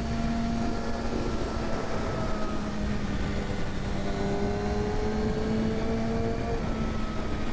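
Kawasaki Ninja ZX-6R sport bike's inline-four engine running at steady riding speed, heard under heavy wind noise. About four seconds in, a second engine note rises slowly in pitch for a couple of seconds.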